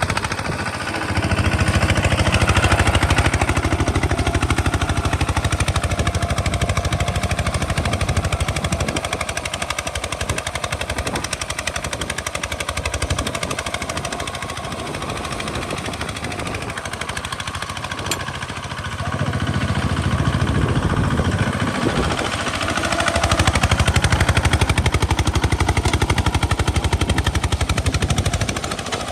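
Single-cylinder diesel engine of a two-wheel hand tractor chugging in rapid, even beats under plowing load. It grows louder about a second in and again twice in the last third.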